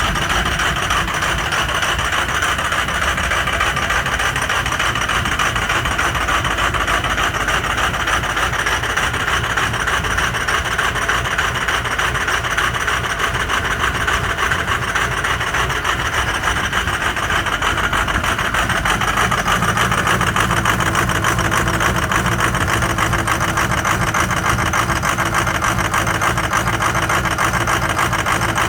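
Ford 6.0 Powerstroke V8 turbodiesel running steadily in the first minutes after a cold start. The engine has some bad injectors. The low part of the sound grows stronger about two-thirds of the way through.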